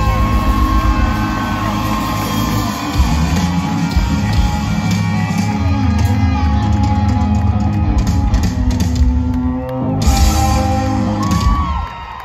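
Live band playing loud, heavy amplified rock-style country music through a concert PA, with a brief break about ten seconds in; the music stops near the end.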